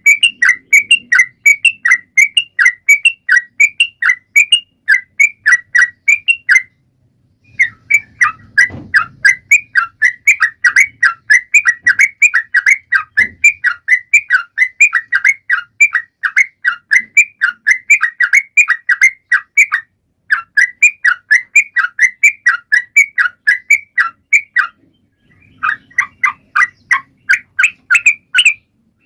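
Trucukan (yellow-vented bulbul) calling in a long, rapid run of short repeated notes, about four or five a second, with brief pauses about seven seconds in and again near the end.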